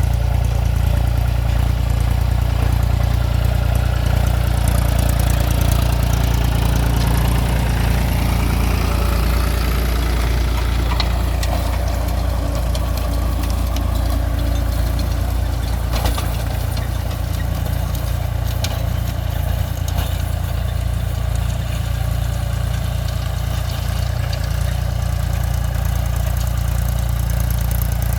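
Mahindra 275 DI TU 39 hp tractor's diesel engine running steadily.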